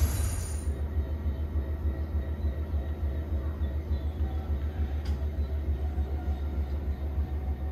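Train running with a steady low rumble, a short hiss fading out within the first second.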